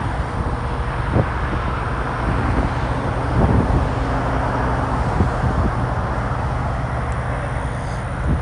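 Wind buffeting the microphone: a steady low rumble with a few brief knocks.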